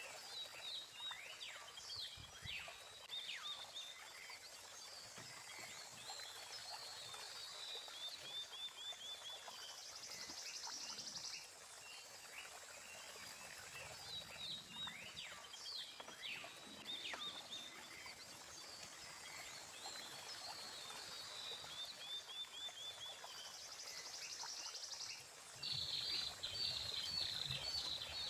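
Wildlife calling around a small stream: scattered high chirps, quick falling calls and short trills over a steady thin high whine. Two buzzing bursts come partway through, and a louder rapid pulsing call starts near the end.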